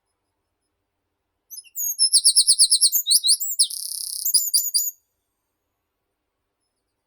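A meadow songbird sings one song phrase, starting about one and a half seconds in and lasting about three and a half seconds: a quick run of high, repeated downward notes, then a short buzzy stretch, then a few slurred notes to finish.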